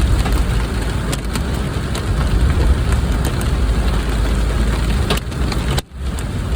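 Heavy rain on a moving car, with a steady low rumble of road and engine under a dense hiss and scattered sharp ticks of drops striking the body. The sound drops out for an instant near the end.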